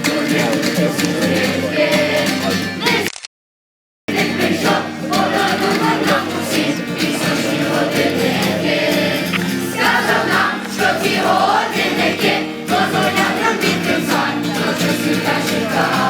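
A group of voices singing a camp song together, broken just over three seconds in by a sudden gap of dead silence lasting about a second before the singing resumes.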